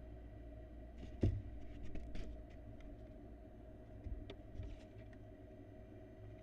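Barn owl nestlings thumping and scraping on the nest-box floor as they pounce in play, a few short knocks, the loudest a bit over a second in and more around two and four seconds, over a steady low hum.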